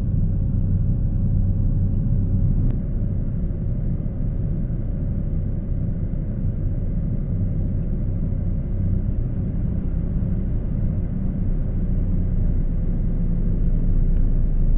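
Cessna 208B Caravan's single turboprop engine and propeller running steadily on final approach: a low drone with a faint steady whine above it.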